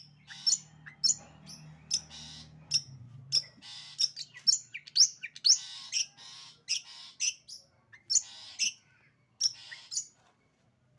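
Long-tailed shrike (cendet) singing in bursts: a rapid series of sharp, high chips alternating with harsh rasping notes, about two a second, falling silent shortly before the end.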